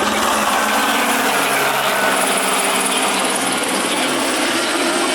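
Loud steady engine sound with a fast, even low pulsing and slow small shifts in pitch.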